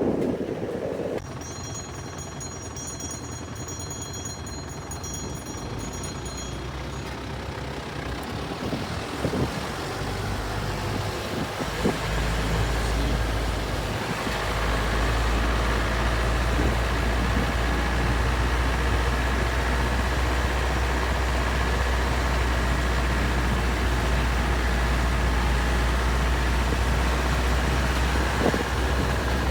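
A truck's engine and road noise as it drives off: a steady low rumble comes in about twelve seconds in and holds, with a few knocks just before it.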